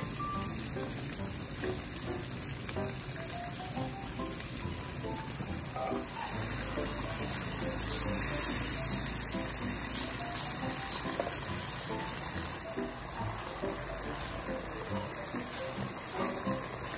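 Garlic, onion and olives sizzling in oil in a frying pan, under light background music. About seven seconds in, whole peeled tomatoes go into the pan and the sizzling swells for a few seconds before settling.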